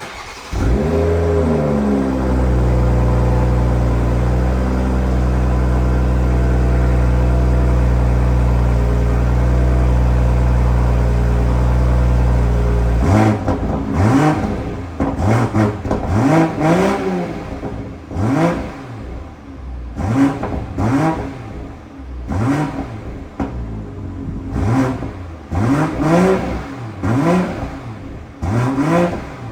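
2022 BMW M440i's turbocharged 3.0-litre inline-six starting from cold. It catches with a brief flare of revs and settles into a steady fast idle. About halfway through, the throttle is blipped over and over, each rev rising and dropping back quickly, roughly one a second.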